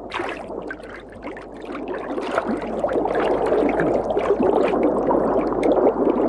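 Shallow river water rushing and splashing, with many small splashes. It grows louder about two seconds in.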